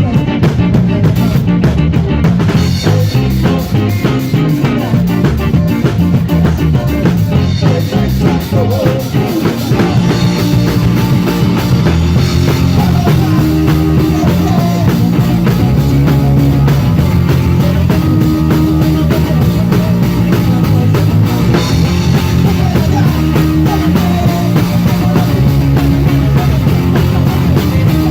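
Rock band playing a song live: drum kit keeping a steady beat under a repeating bass line and guitars.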